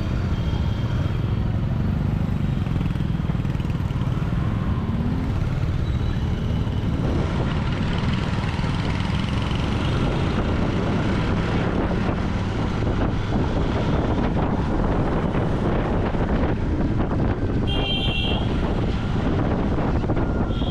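Royal Enfield Continental GT 650's parallel-twin engine and exhaust running under way, a steady low rumble with a brief rise in revs about five seconds in. It grows fuller from about seven seconds in as the bike pulls harder.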